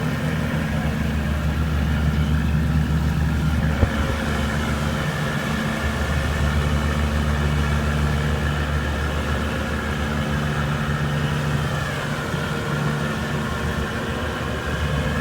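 Boat engine running steadily at low speed, an even low hum, with a short knock about four seconds in.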